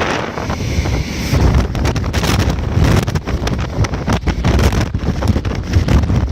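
High wind buffeting the microphone: a loud, gusty rumble with irregular crackles.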